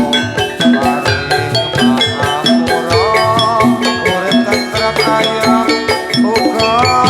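Javanese gamelan music accompanying a jathilan dance: struck metal keys and gongs over a drum rhythm, playing continuously at a steady beat, with a melody line that bends in pitch.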